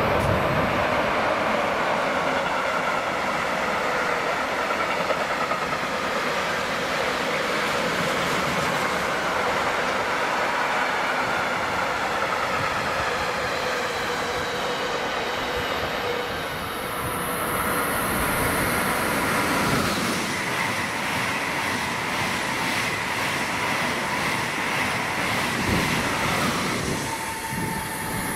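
A train running past on the rails: a steady rumble of wheels with a faint whine over it, and a regular clatter of wheels over rail joints in the second half, before it dies away near the end.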